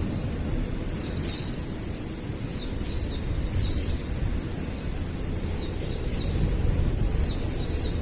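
Wind buffeting the microphone with a steady low rumble, while a small bird calls repeatedly in short, high, downward-sliding chirps, about seven of them.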